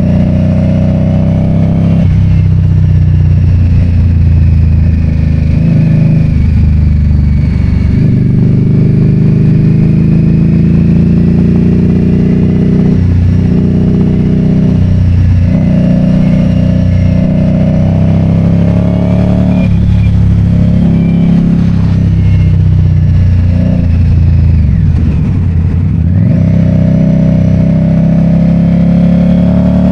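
A vehicle engine running under way. Its pitch climbs and then drops back several times, as it accelerates through the gears.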